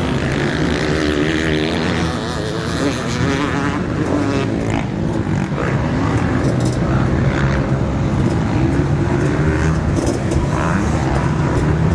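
Several motocross bikes' engines revving at once as the field races around the track, overlapping pitches rising and falling as riders work the throttle.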